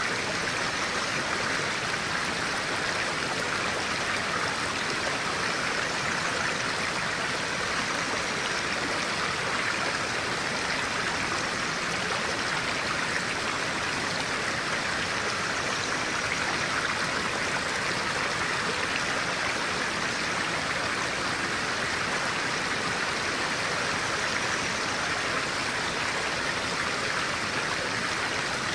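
A clear-water stream flowing, a steady, unbroken rush of water.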